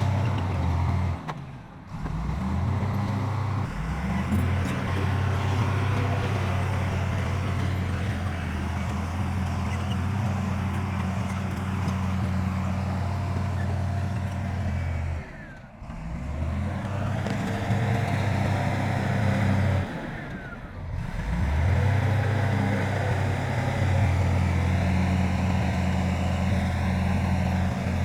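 Heavy diesel engine of construction machinery running with a steady low drone. The sound drops out briefly three times, about 1.5 s, 16 s and 21 s in.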